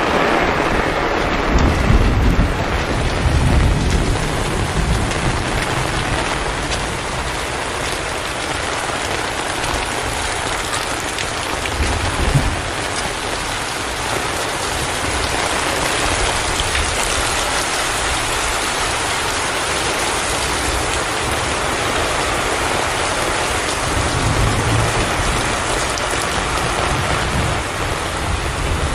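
Heavy rain falling steadily, with low rolls of thunder rumbling under it: a long one near the start, a shorter one about midway and another near the end.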